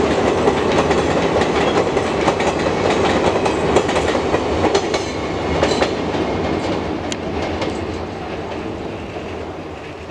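Passenger coaches of an Indian Railways express train rolling over a girder bridge. A steady rumble carries sharp clicks of wheels passing over rail joints. After the last coach goes by, about six seconds in, it fades away.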